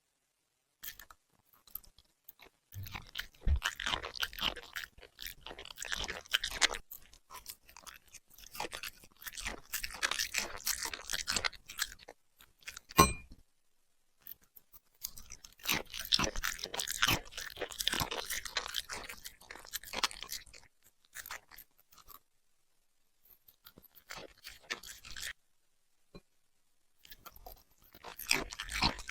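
Puppy chewing and crunching food close to the microphone, in several bouts of crackly crunching with short pauses between, and one sharp click partway through.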